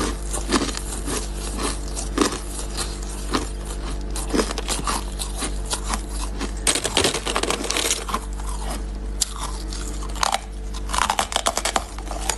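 Ice being bitten and chewed close up: irregular sharp crunches and cracks, coming thickest about seven seconds in and again near the end, over a steady low hum.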